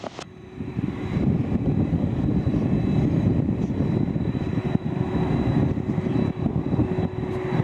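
Airliner engines running: a steady rumble with a faint steady whine above it.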